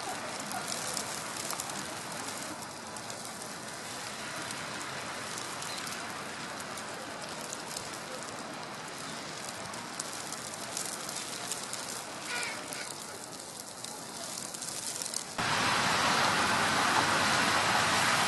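Snowstorm ambience: a steady hiss with fine pattering and crackle of wet snow falling. About fifteen seconds in it jumps abruptly to a louder, denser rushing noise.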